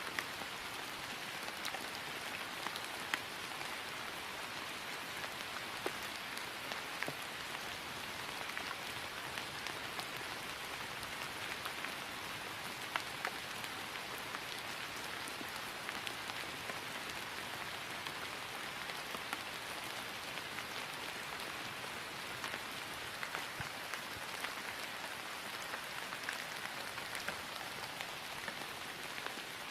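Steady rain falling on grass, an even patter with occasional sharper drop ticks.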